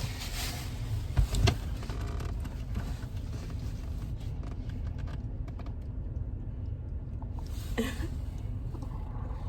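Steady low rumble inside a parked car's cabin, with two soft knocks about a second and a half in.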